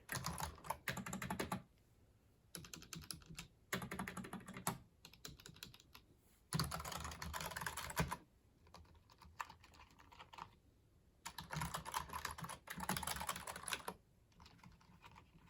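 Typing on a computer keyboard: quick runs of keystroke clicks in bursts of one to two seconds, with short pauses between them and a fainter run near the end.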